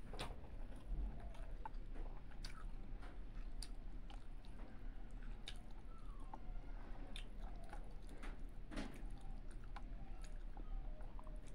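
Close-up chewing of a mouthful of rice and fish, with short wet clicks and smacks scattered irregularly throughout.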